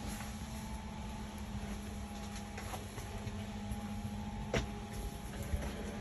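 Steady drone of a Cessna 208 Caravan's PT6A turboprop engine and propeller running at constant power, with a few faint clicks.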